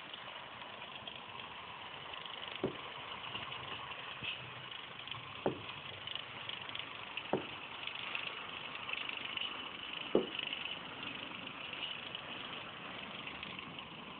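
Small electric motor of a Hornby Thomas the Tank Engine model locomotive whirring steadily as it runs on its track, with four sharp clicks a few seconds apart.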